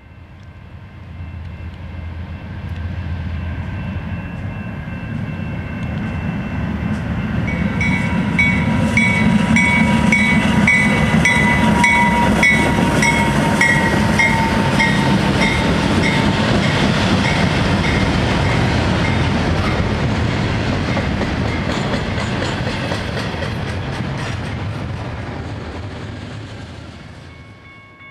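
BNSF freight train led by GE wide-cab diesel locomotive 5277, hauling tank cars, approaching and passing close by. The engine and wheel rumble grows louder, peaks as the locomotives go by about halfway through, then fades as the cars roll past. A ringing tone pulses about twice a second while the locomotives pass.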